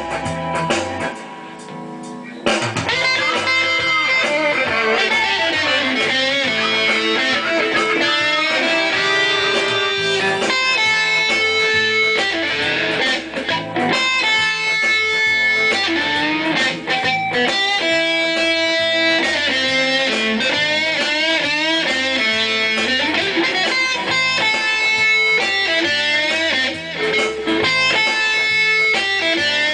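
Electric guitar music: a melodic lead line with bent and sliding notes over a lower moving part. It drops quieter for a moment near the start, then resumes at full level.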